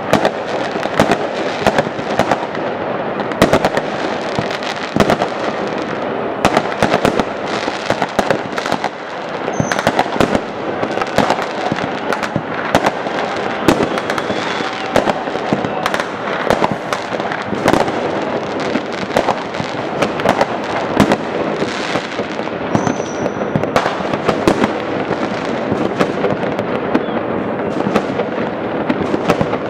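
Many fireworks going off at once: a dense, unbroken barrage of bangs, cracks and crackling from all around, with a couple of brief high whistles.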